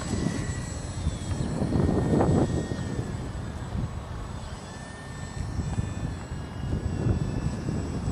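Small electric motor and propeller of an E-flite Micro Beast RC biplane whining in flight, its pitch sliding up and down with throttle and distance. Wind gusts buffet the microphone underneath, loudest about two seconds in and again near the end.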